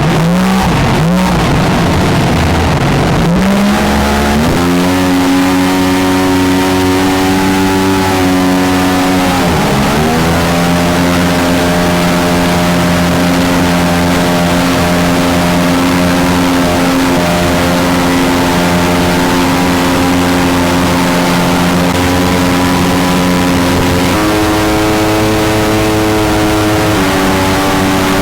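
Mini jet boat's engine revving up from low speed over the first few seconds, then running steadily at speed. The pitch dips and climbs back about ten seconds in, and steps up twice near the end as the throttle is opened further.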